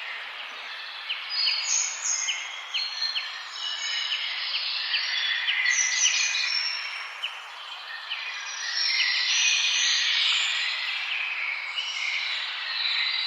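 Several birds chirping and singing together, short high notes overlapping throughout, with a run of quick clicking chirps between about one and three seconds in, over a steady background hiss.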